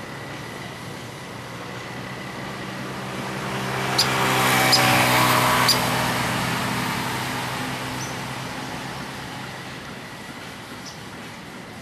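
A road vehicle driving past: its engine hum swells to a peak about five seconds in and then fades away. Three sharp ticks sound near the loudest point, and two fainter high ticks come later.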